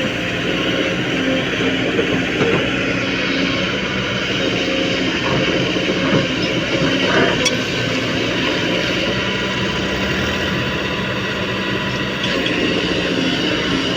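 Diesel engines of a Kobelco SK220 excavator and a tractor running steadily, with a few sharp knocks.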